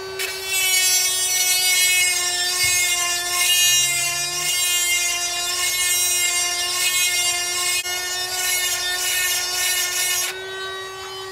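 Electric chainsaw sharpener's motor running with a steady whine while its grinding wheel grinds the chain's cutter teeth, a loud high-pitched hissing grind. About ten seconds in the grinding stops and the wheel keeps spinning freely.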